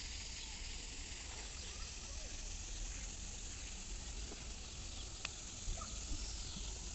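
Outdoor ambience on a walk: a steady high hiss with a low rumble underneath, and a sharp click a little after five seconds in.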